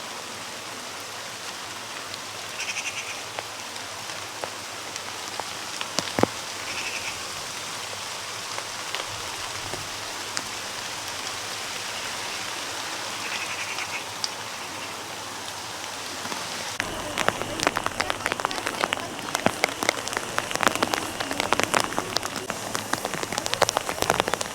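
Steady rain, with a single sharp tap about six seconds in. From about two-thirds of the way through, heavier drops patter close to the microphone.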